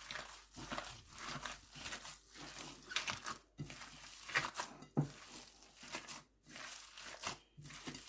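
Hands mixing and kneading raw minced chicken with chopped onion, spices and margarine in a bowl: a run of irregular soft, noisy strokes, one every half second to a second.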